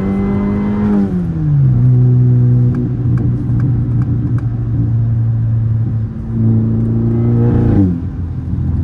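Tuned turbocharged car engine revving up, holding, and easing off, then running steady before revving up again and dropping away sharply about eight seconds in.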